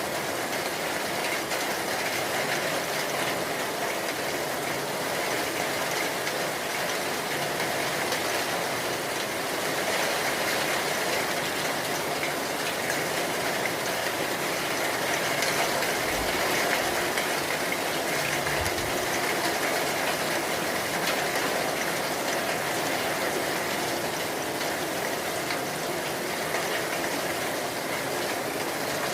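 Rain falling steadily: an even hiss with no thunderclaps.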